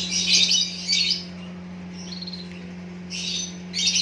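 Small bird chirping and twittering in several quick high-pitched bursts, loudest in the first second and again near the end.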